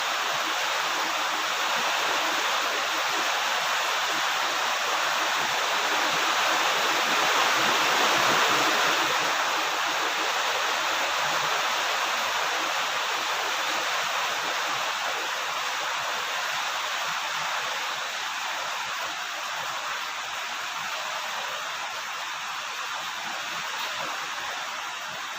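Heavy rain falling, a steady dense hiss that swells slightly partway through and eases a little near the end.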